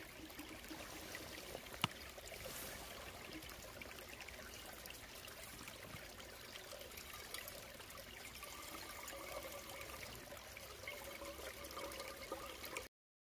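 Water trickling and gurgling in a steady low hiss, with one sharp tick about two seconds in. The sound cuts off abruptly near the end.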